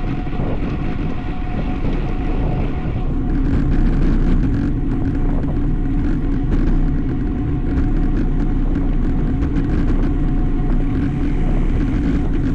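Steady wind rushing over the microphone, mixed with road and tyre noise from a road bike being ridden at speed.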